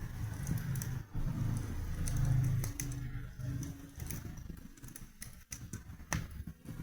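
Fire burning in a fireplace, crackling with irregular sharp pops and snaps over a low rumble that is loudest in the first half.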